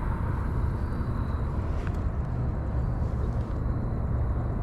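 Steady low rumbling outdoor noise.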